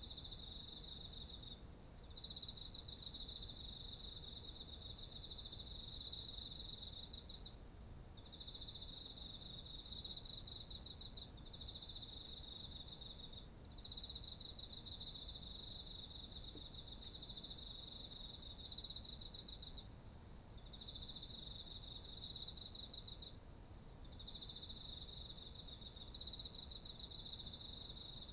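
Autumn field insects calling together: one steady high-pitched trill runs throughout, while two lower pulsed trills come in overlapping phrases of a few seconds each, starting and stopping.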